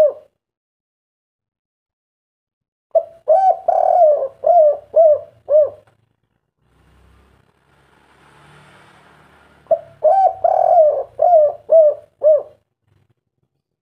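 Spotted dove (tekukur) cooing its 'kuk 3' song: two phrases of about six coos each, a few seconds apart.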